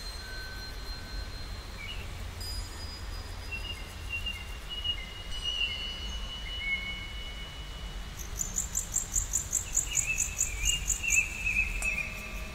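Birds calling: thin whistled notes, some held and some sliding, with a fast high chirping trill from about two-thirds of the way through, over a steady low rumble.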